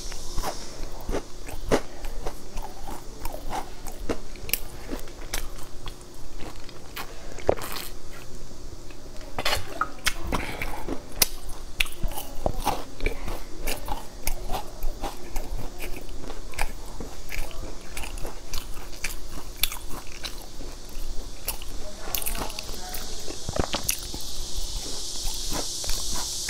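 A person biting and chewing crunchy, glazed, sesame-coated fried dough pastries: an irregular run of crisp crunches and chewing clicks.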